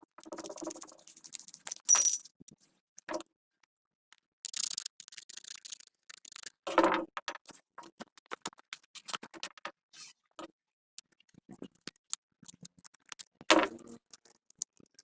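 Hand work on small parts: scattered clicks, light knocks and scraping, with a few louder knocks at about 2, 7 and 13 seconds in.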